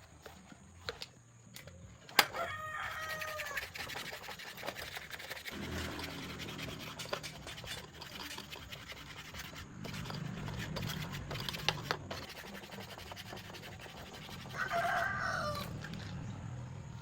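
A chicken calling twice, once a couple of seconds in and again near the end, over steady background noise with a sharp click just before the first call.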